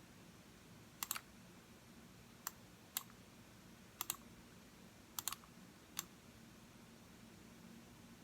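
Computer mouse buttons clicking: about nine sharp clicks over several seconds, some single and some in quick double-click pairs.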